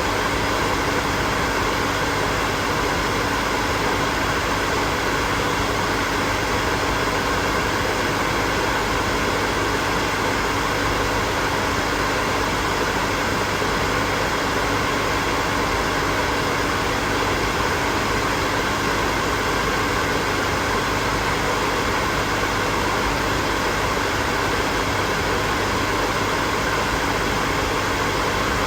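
Electric hair dryer running steadily: an even rush of blown air with a faint constant motor hum.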